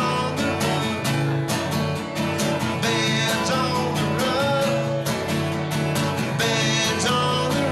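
Acoustic-guitar-led music: guitar strummed in a steady rhythm over sustained low notes, in an instrumental stretch between sung lines.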